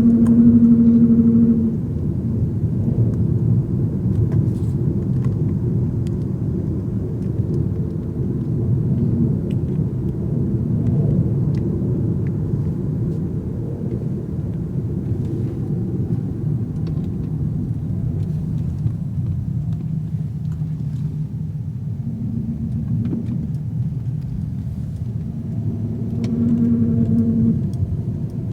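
SRT8's Hemi V8 and road noise heard from inside the car while driving slowly, a steady low rumble. A humming drone rises over it for the first two seconds and again near the end.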